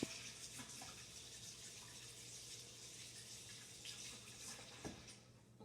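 Sink tap running while hands are washed under it, with a couple of light knocks. The water stops shortly before the end.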